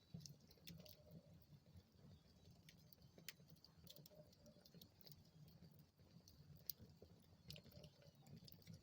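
Wood fire in a fireplace crackling faintly: scattered small pops and snaps over a low rumble of the flames, with the sharpest pop about seven seconds in.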